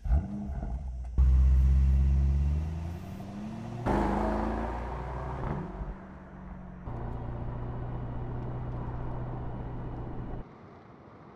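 Mercedes-AMG SL's twin-turbo 4.0-litre V8 in a run of short edited clips: loud revs that rise and fall, then a steady idle-like drone from about seven seconds in, with each clip cut off abruptly.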